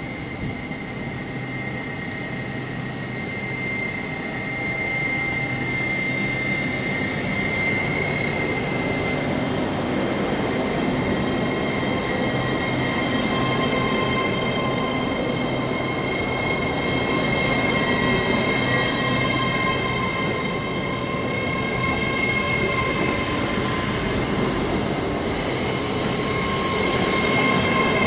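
A train moving through the station, a steady rumbling noise under several long, steady high-pitched squealing tones. A new set of higher tones joins about 25 seconds in.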